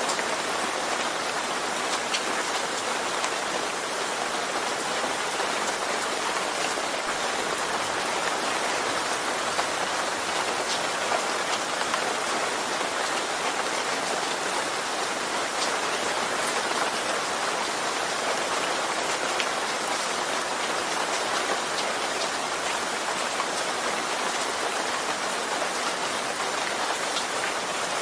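Steady rain falling and pattering on a surface, an even hiss with faint scattered drop ticks.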